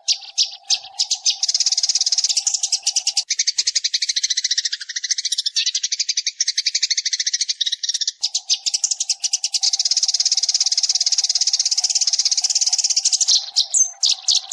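Sparrows chirping in a fast, unbroken chatter of many calls a second. This is a decoy recording played to lure sparrows. A faint steady low tone sits under most of it but drops out for a few seconds in the middle.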